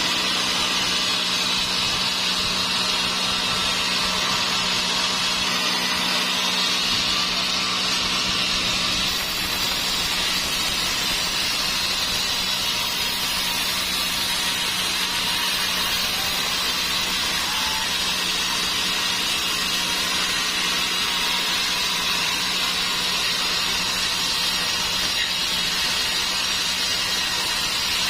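Sawmill saw running steadily through dry teak: a loud, high whine that wavers slowly in pitch over a steady low hum.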